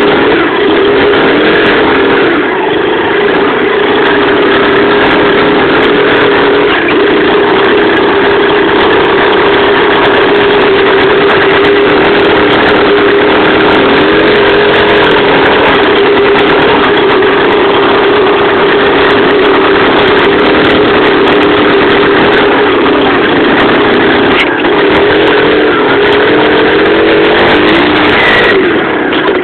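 Loncin-engined pit bike's single-cylinder four-stroke engine running loud at a fairly steady speed. Its note wavers slightly, dips a little about halfway and rises briefly near the end.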